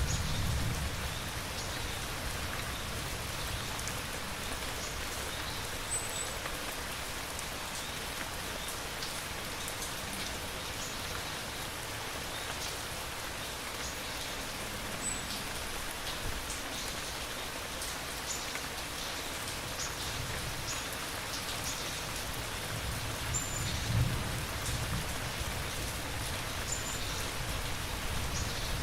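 Steady rain falling, with low thunder rumbling at the start and again about two-thirds of the way through.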